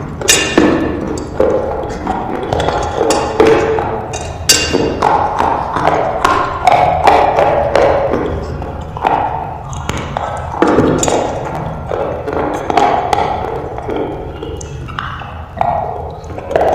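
Slate pencils being bitten and chewed close to the microphone: an irregular run of sharp crunches and snaps, several a second.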